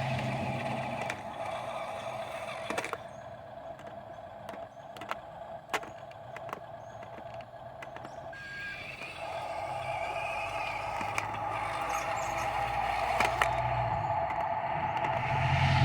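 Dump truck engine running steadily, easing off for a few seconds near the middle and building again toward the end, with scattered sharp clicks and knocks.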